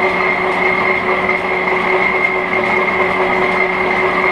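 Hendey metal lathe running in back gear at about 80 RPM, a steady mechanical whine and hum from the drive and gears with several constant tones.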